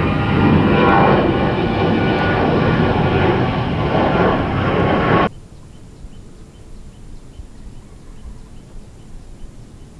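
Jet airliner engines running loud, a dense noise with several steady tones in it. The sound cuts off abruptly about five seconds in, leaving a quiet outdoor background with faint, regular high chirps.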